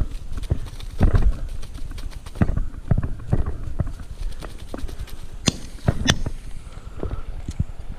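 Irregular knocks and thumps, with two sharper cracks about five and a half and six seconds in.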